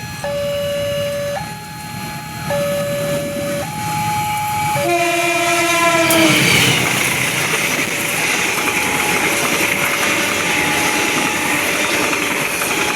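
A warning alarm alternating between two tones about once a second, typical of a railway level crossing. A little under halfway through, a passing train sounds its horn, and the horn's pitch drops as it goes by. The loud, steady noise of the train running past follows, with the two-tone alarm still going faintly behind it.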